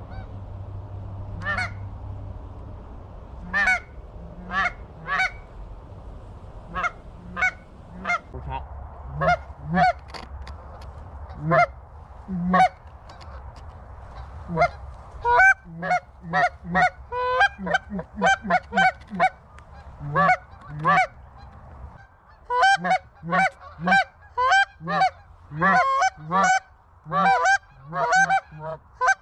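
Geese honking: a run of short honks, scattered at first, then coming thick and fast and overlapping from about halfway on.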